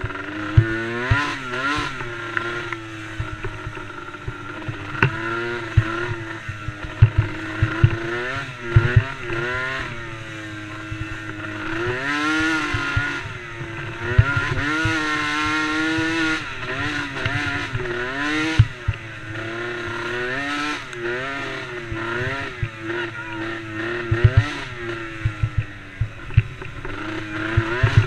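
Small youth racing quad engines revving hard, the pitch swinging up and down every second or two as they accelerate and back off around the track, with frequent short sharp knocks.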